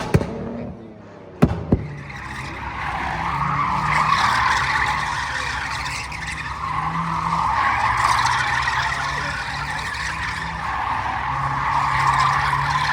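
Car tires squealing in a long screech that swells and fades, over an engine held at high revs, as a car slides in a burnout at a street takeover. A couple of sharp pops come just before the screech begins.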